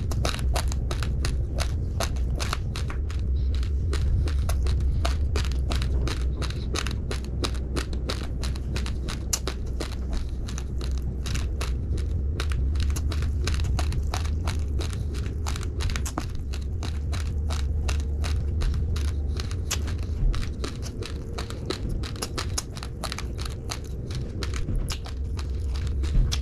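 Raw, uncooked rice grains being chewed close to the microphone: a fast, unbroken run of small crisp crunches as the hard grains crack between the teeth, over a steady low rumble.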